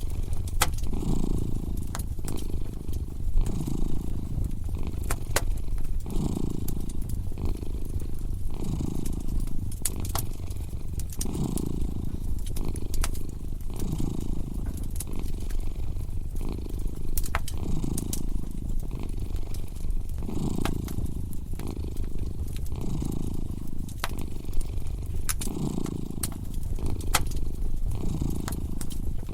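A cat purring steadily, swelling and easing about every second and a half with its breathing. Over it, a fireplace fire crackles with scattered sharp pops.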